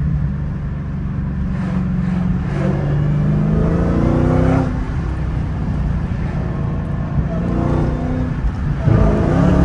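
Supercharged 6.2-litre HEMI V8 of a Dodge Challenger SRT Hellcat Redeye accelerating, heard from inside the cabin. Its pitch climbs, drops back about halfway through, then climbs again near the end.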